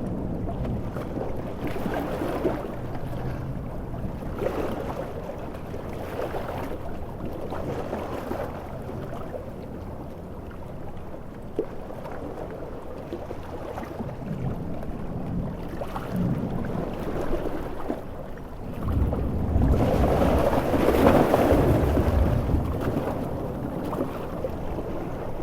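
Storm at sea: rough surf and wind making a steady low rush that swells and ebbs every few seconds, with a louder, deeper rumbling surge about nineteen seconds in that lasts a few seconds.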